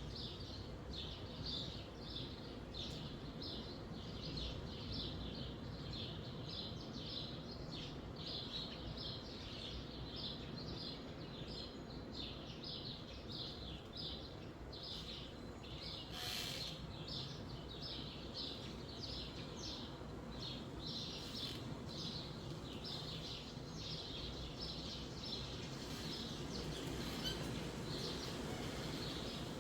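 Small birds chirping over and over, about two chirps a second, over a steady low rush of wind in the trees.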